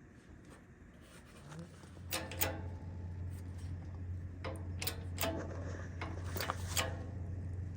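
A steady low hum starts about two seconds in, with a run of sharp metallic knocks and clanks over it, during work to free a seized part of a bus's Torsilastic suspension.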